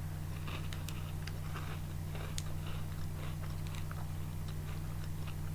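A person chewing a crunchy multi-layer hazelnut wafer bar: faint, irregular crunching and small crackles over a steady low hum.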